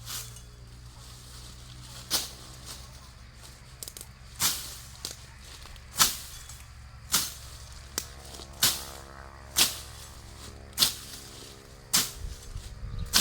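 Repeated sharp strikes, roughly one every second, over a low steady hum.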